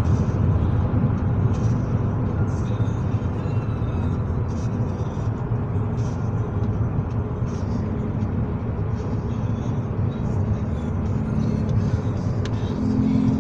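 Road noise of a car driving at steady speed: a constant low rumble of engine and tyres.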